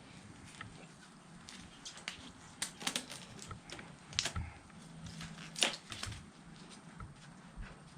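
Irregular light clicks and taps, a few at a time, over a low background hum, with the sharpest click about five and a half seconds in.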